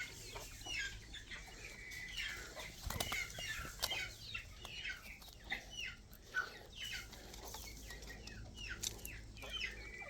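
A flock of quail calling: many short, overlapping chirps, most dropping in pitch, with a few sharp ticks among them.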